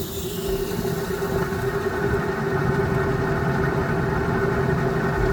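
Belt-driven downblast exhaust fan running just after being switched on, on a freshly replaced belt. It comes up to speed over the first couple of seconds, then settles into a steady hum with a steady tone through the rushing air.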